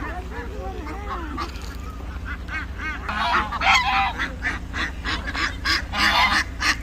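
A flock of waterfowl calling: many short honking calls come in quick overlapping series, growing busier and louder about three seconds in.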